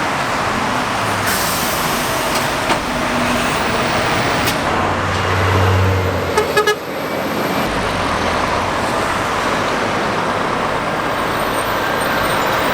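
Heavy road traffic passing close by on a busy main road: lorries' diesel engines and tyre noise in a steady rush, with one truck's low engine note swelling past about halfway through. Just after that come three quick, sharp clicks or knocks.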